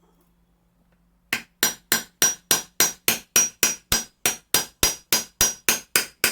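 Hammer striking the steel of an Austrian scythe blade: a steady run of about seventeen even, ringing metal-on-metal blows, roughly three a second, starting about a second in.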